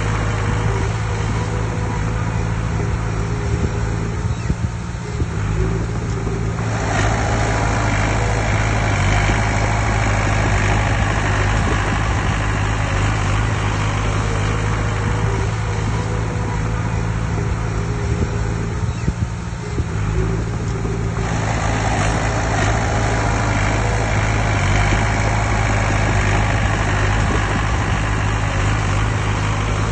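Heavy diesel engine of earthmoving machinery running steadily with a constant low drone. The higher part of the sound swells at about 7 seconds and again at about 21 seconds, as the engine comes under load.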